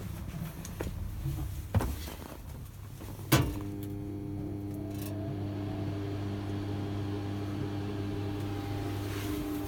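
A sharp click about three seconds in, after which a welding power supply hums steadily, a buzzy mains hum with a stack of overtones. A smaller click comes about two seconds in.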